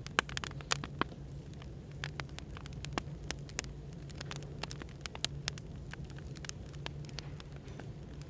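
Burning firewood crackling, with sharp irregular pops several times a second, over a steady low hum of background noise.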